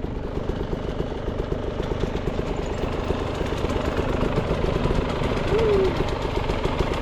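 Beta 300 RR Racing's single-cylinder two-stroke dirt bike engine running under way on the trail, a fast steady pulsing that grows louder in the second half as the rider opens the throttle.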